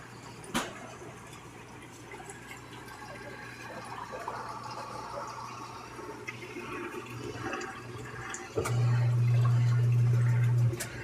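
Samsung Wobble top-load washing machine draining, with water rushing and gurgling through it. A low hum runs throughout and turns loud and steady from about nine seconds in until just before the end. There is a sharp click just after the start and another just before the loud hum begins.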